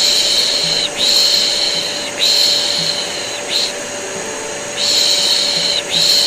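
A voice shushing a baby with repeated 'piş piş' hisses, mostly about a second long with a few short ones between, over the steady running drone of a vacuum cleaner.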